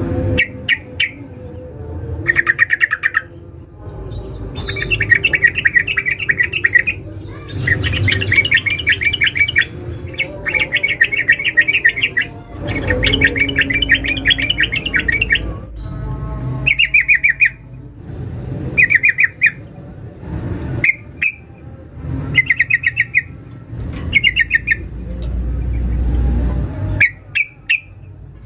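Female sooty-headed bulbul (trucukan) giving sharp, rapid chattering calls in repeated bursts of quick notes with short pauses between them. This is the call a female uses to draw a male.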